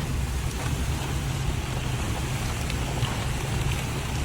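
Steady low rumble with an even hiss and light scattered raindrop ticks.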